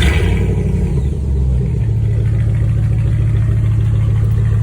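A 2007 Jeep Grand Cherokee's V8, running through a straight-pipe exhaust with no muffler, comes in suddenly loud, then settles within about two seconds into a steady, deep idle.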